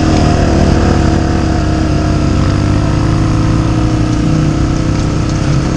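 Dirt bike engine running at a steady speed under way.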